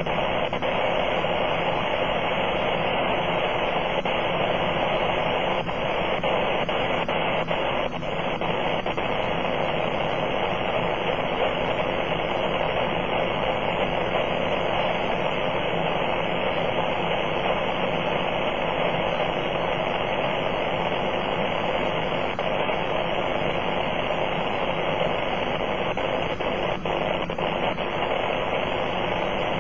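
Powerline interference (RFI) on the 80-meter amateur band, heard through a Kenwood TS-480 ham receiver as a steady, even noise that holds at about S7. It is the sign of arcing or broken hardware on nearby power poles, and it drowns out weaker stations.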